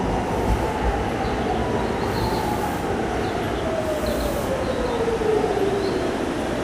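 Seibu electric commuter train running, its motor whine falling steadily in pitch as it slows, over the steady rumble of the cars. Two brief hisses come about two and four seconds in.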